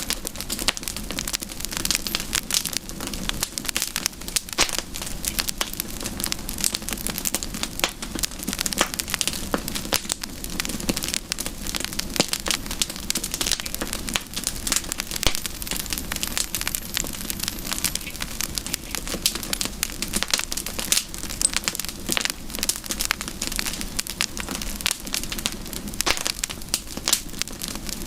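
Wood fire burning with dense, irregular crackling and popping over a steady low hiss of flames.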